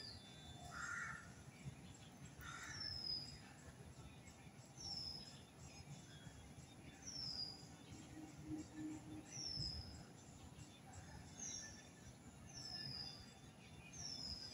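A bird repeating a short, high, downward-slurred call about every two seconds, faint against low background noise.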